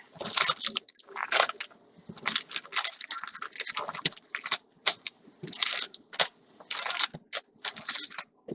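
Paper or plastic packaging being handled and unwrapped, with irregular crinkling rustles in quick succession.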